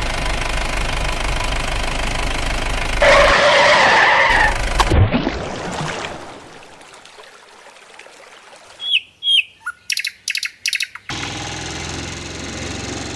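A string of cartoon sound effects: a vehicle engine running, a louder noisy burst about three seconds in that falls away in a downward sweep, then two bird chirps and a quick run of short sharp sounds, and another engine starting up near the end.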